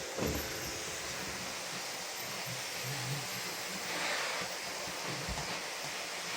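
Vacuum cleaner running with a steady hiss, with a low thump just after the start and another near the end.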